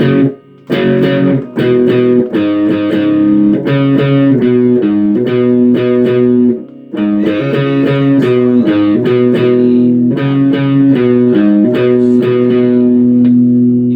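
Guitar playing a riff of one-finger power chords, the chords struck in quick succession and shifting up and down the neck, with a short break about halfway and a chord left ringing at the end.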